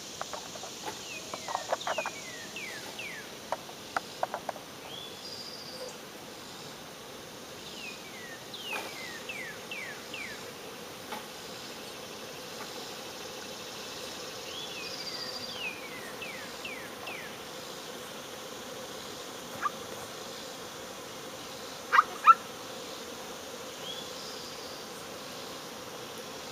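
Honey bee swarm buzzing steadily, while a songbird sings three times in runs of quick falling whistled notes. A few sharp clicks or taps come through, the loudest a pair about twenty-two seconds in.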